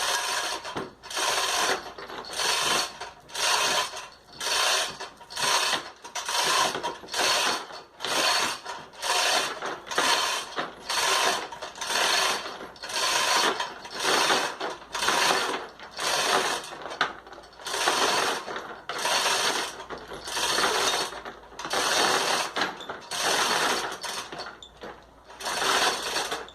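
Hand-worked ratchet clicking in even strokes, a little over one a second, as the gearbox is hoisted up and out from above.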